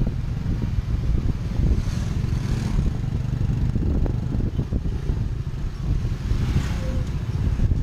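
Riding in a Cambodian motorcycle-drawn tuk-tuk: the motorbike's engine running with road and traffic noise, and wind rumbling on the microphone.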